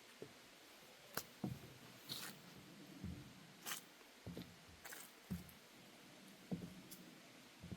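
Footsteps on a wooden deck walkway: soft, irregular low thuds about once or twice a second, mixed with brief swishing rustles.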